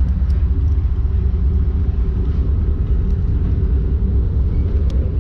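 Steady low rumble, with a couple of faint clicks.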